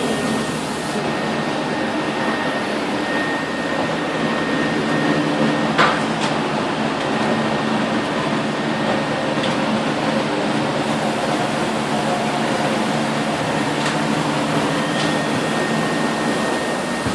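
Steady hum and whir of running machinery, with faint steady tones and a few light clicks.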